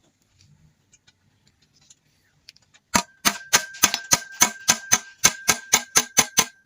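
A quick run of hammer blows on metal, about four a second, starting about three seconds in, each strike leaving a high metallic ring. The hammer is knocking on the unbolted transfer case of a Mazda Bongo transmission to separate it.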